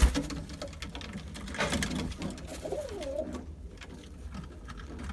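A bird cooing: one wavering call a little past halfway, over a steady low rumble.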